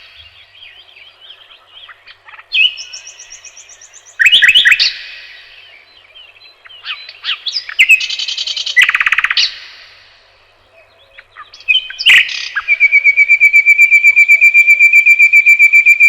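Songbirds singing: a string of varied whistled phrases and chirps, then near the end a long, fast trill of even, high notes lasting about three and a half seconds.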